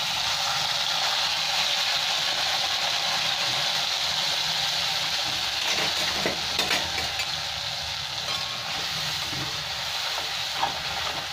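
Freshly blended tomato purée sizzling steadily in hot oil in a metal kadai, the sizzle easing slightly as it goes on. A spatula scrapes and stirs it against the pan near the end.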